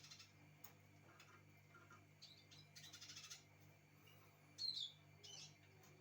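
Small songbirds chirping faintly: scattered short chirps, a rapid buzzy trill about three seconds in, and a louder call sweeping downward just before five seconds.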